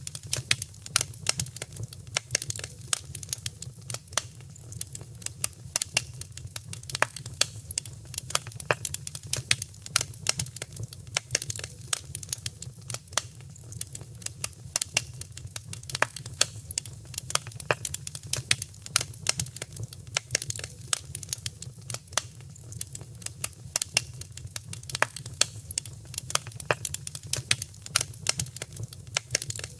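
Fireplace fire crackling: a dense, continuous run of sharp pops and snaps, several a second, over a low steady rumble.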